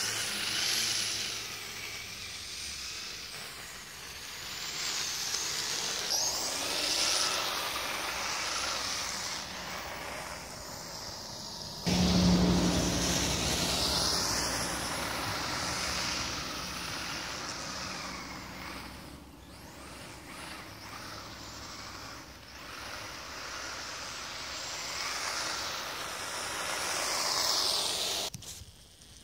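Electric motors and gearboxes of a radio-controlled tracked snow vehicle, two Kyosho Blizzard chassis coupled together, whining, the pitch rising and falling over and over as the throttle changes. A louder low rumble joins about twelve seconds in, and the sound cuts off suddenly near the end.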